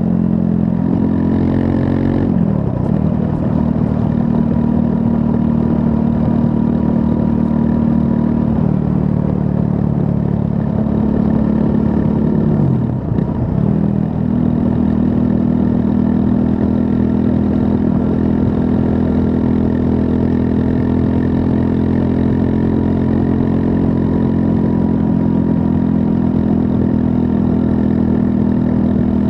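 The 398 cc liquid-cooled single-cylinder engine of a 2024 Triumph Scrambler 400 X running under way at fairly steady revs. Twice, about two and a half seconds in and again around thirteen seconds in, the engine note drops sharply and then climbs back.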